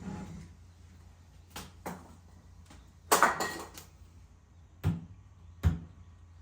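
Scattered sharp knocks and a short rattling clatter about halfway through, the loudest part, as wood stove parts are handled and fitted together.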